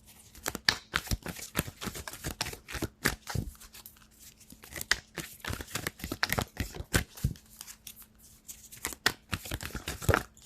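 A deck of oracle cards being shuffled and handled: an irregular run of sharp card snaps and paper rustles.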